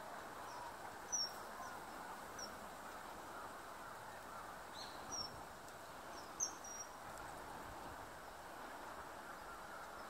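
A bird giving about six short, high-pitched calls, some with a quick downward slide, over steady outdoor background noise.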